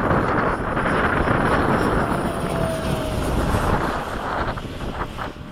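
Wind buffeting the microphone with the high whine of an electric ducted-fan RC F-16 jet in flight. The whine sinks slightly in pitch through the first half and the sound fades near the end.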